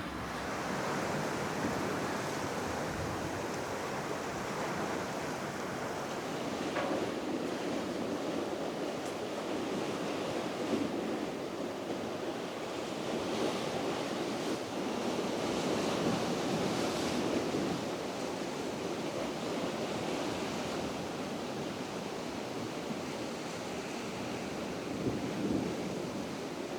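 Steady wash of surf along the shore, mixed with wind, rising and falling gently in level.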